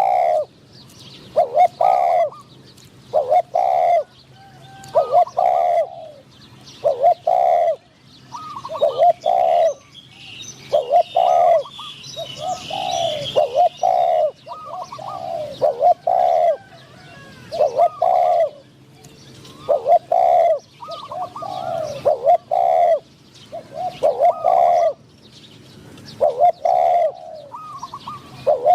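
Spotted doves cooing over and over, a short phrase of a few notes about every two seconds, with faint chirping of small birds in the middle.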